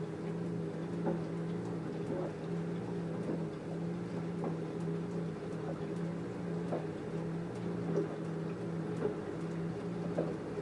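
LG F10A8HDS5 front-loading washing machine tumbling a full load in the wash phase: a steady motor hum with a soft thud about once a second as the laundry drops in the turning drum. The motor stops near the end.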